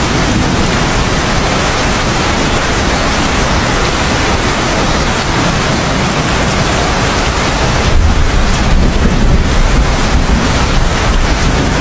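Heavy rain falling steadily, with a low rumble of thunder coming in about two-thirds of the way through.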